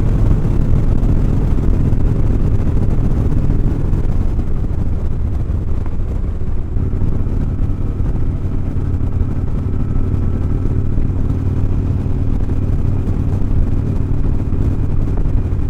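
Motorcycle engine running steadily at a constant cruising speed, with road noise.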